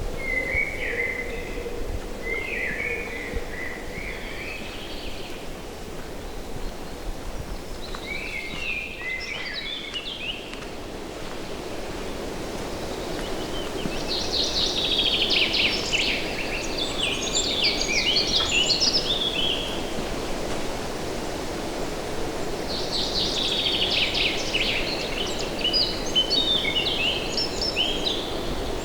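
A songbird singing in separate phrases of rapid, varied notes. The longest and loudest phrase comes about halfway through, and another comes near the end, over a steady background hiss.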